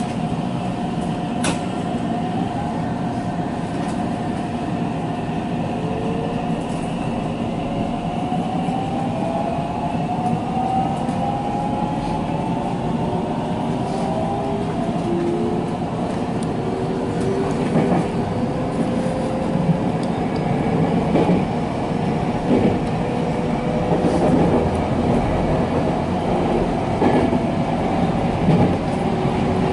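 Electric commuter train pulling away and accelerating, heard from inside the front car. The electric motors' whine climbs steadily in pitch in several tones over a constant running rumble. In the second half, sharp clicks of the wheels over rail joints come in.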